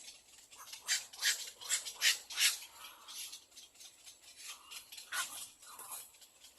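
Little egret chicks making short, raspy, hissing bursts at the nest, several in quick succession about a second in, then a few more near the end.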